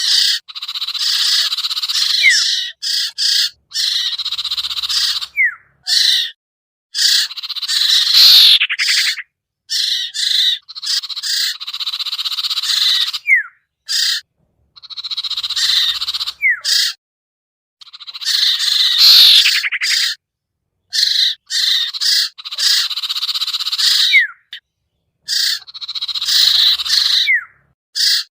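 Looped bird-lure recording of iora (cipoh, locally sertu or sirtu) calls: loud high-pitched chattering and whistled notes with short pitch glides. The calls are cut into segments by abrupt silent gaps, and the sequence repeats about every eleven seconds.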